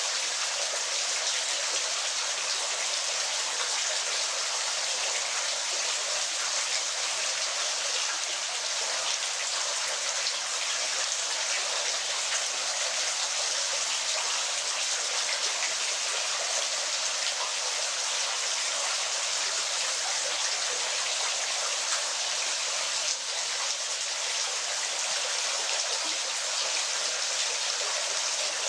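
Waterfall water rushing steadily, a dense even hiss with no deep rumble.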